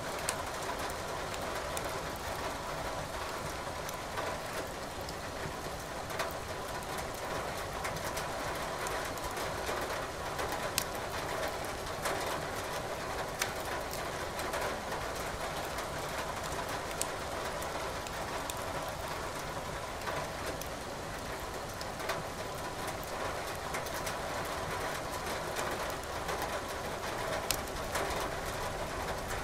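Steady rain hiss mixed with a wood fire burning in a fireplace. Sharp crackles and pops from the burning firewood come every second or so.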